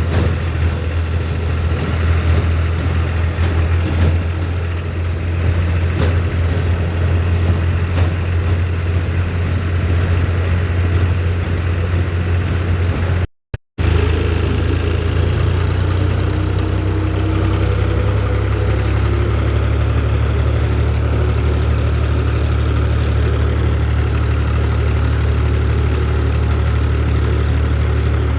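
Tractor engine running steadily at low revs, a strong even low hum, cut off for a fraction of a second about halfway through and then carrying on.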